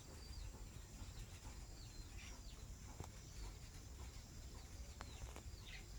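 Faint bird chirps: short, high notes that each slide quickly downward, scattered about every second, with a couple of soft clicks.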